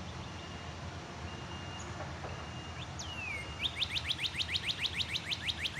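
Birdsong: a few thin, high, steady whistles, then a single falling whistle about three seconds in, then a fast run of downward-sweeping chirps, about six a second, that starts a little past halfway and keeps going. A steady low rumble lies underneath.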